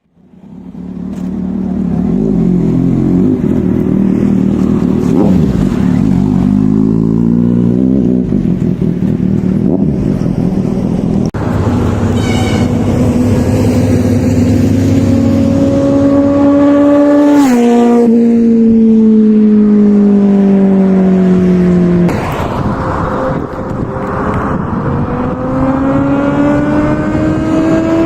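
Kawasaki Z800's inline-four engine pulling hard through the gears. Its exhaust note climbs steadily in pitch, drops sharply at a gear change about two-thirds in, falls away, then climbs again and shifts once more near the end.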